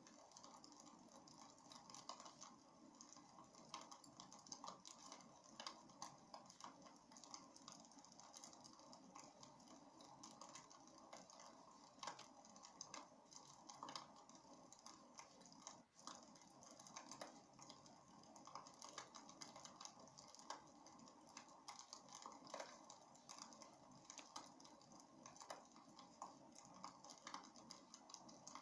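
Faint wood fire burning in a fireplace: a soft steady hiss with many small irregular crackles and snaps.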